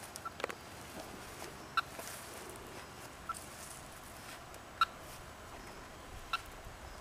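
Radio telemetry receiver beeping as it picks up the pulses of the transmitter on an eastern box turtle: four short tone pips, evenly spaced about a second and a half apart.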